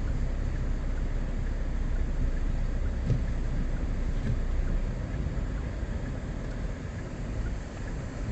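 Steady low rumble of wind buffeting the microphone outdoors in a blizzard, easing slightly after about five seconds.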